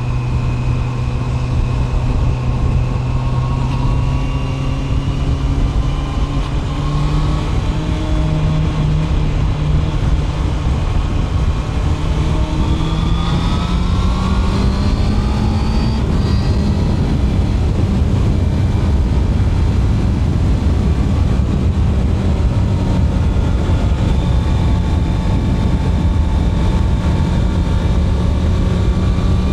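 Honda CB650R inline-four engine running under way, its revs climbing smoothly through the first half, then holding steady at cruise. Wind rush grows with the speed.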